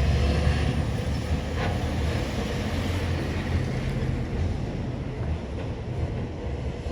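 Loaded truck driving past, its engine running low and steady, growing gradually quieter as it moves away.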